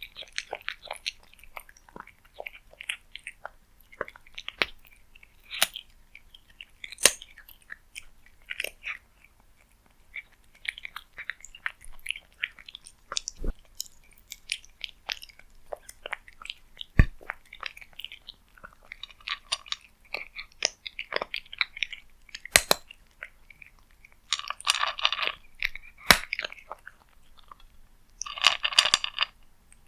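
A cat eating close to the microphone: irregular chewing clicks and crunches, with two longer, denser bursts of crunching in the last few seconds.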